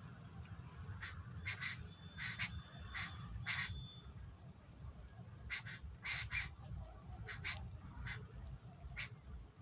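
Birds calling: short, harsh calls repeated in quick clusters, with a pause of a second or so in the middle.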